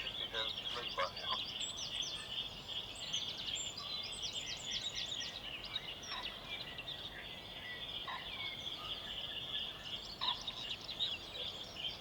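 Dawn chorus of songbirds: many overlapping quick chirps and trills over a steady high-pitched background band.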